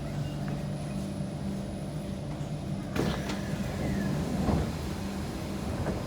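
Steady electrical hum inside a Kawasaki C151 MRT train car, with a sharp clunk about halfway through followed by a second or so of rattling and sliding sounds.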